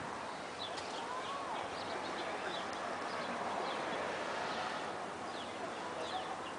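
Outdoor ambience with a steady background hiss and many short, faint bird chirps scattered throughout, plus one brief rising-and-falling call a little after a second in.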